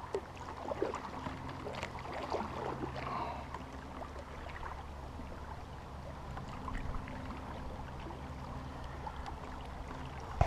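Kayak paddle strokes dipping and splashing in river water, with water trickling off the blade and along the hull, busiest in the first few seconds, over a steady low hum.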